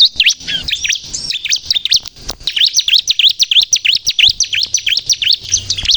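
Bar-winged prinia (ciblek) singing loudly in rapid runs of sharp, sweeping chirps, several notes a second, easing briefly about two seconds in before picking up again.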